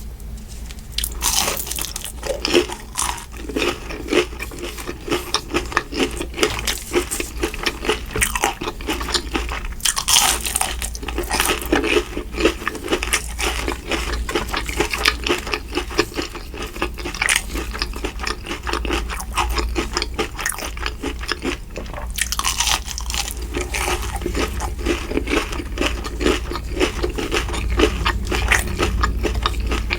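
Close-miked eating: repeated crunching bites and chewing, a rapid, irregular run of crisp clicks.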